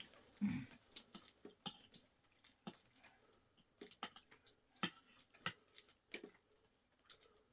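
Faint, irregular small clicks and taps of someone eating: a utensil against a dish, and chewing. A brief low voice sound comes about half a second in.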